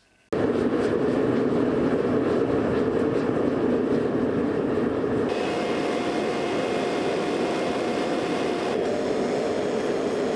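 Workshop equipment starting abruptly and running with a steady, loud rushing noise, with no hammer strikes.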